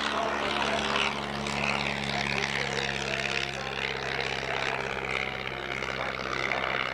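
Propeller airplane's piston engine running steadily, a low even drone.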